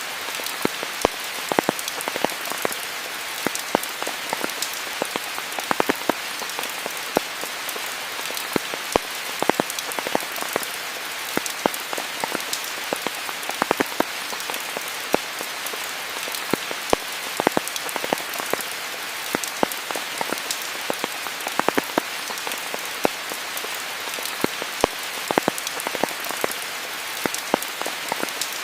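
Steady rain with many separate drops pattering close by at an irregular pace over an even hiss.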